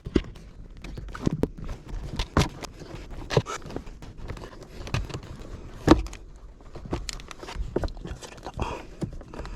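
Irregular clicks and knocks, the strongest about six seconds in, of plastic parts being handled while a car's cabin air filter is changed behind the glovebox.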